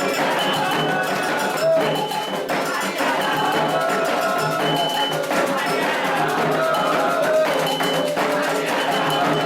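Candomblé ritual music: percussion with a metal bell struck in a repeating pattern, under voices chanting.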